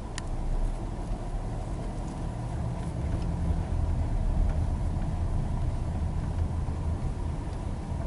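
Low, steady rumble of a car's engine and running gear heard from inside the cabin as the car pulls ahead, with a single click just after the start.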